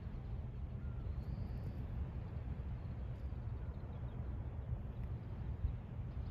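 Steady low outdoor rumble at the seaside, with a faint short bird call about a second in.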